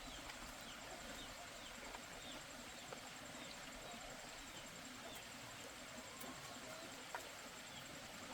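Faint outdoor farm ambience: short falling bird chirps repeating about twice a second over a steady high insect trill, with a few scattered clicks.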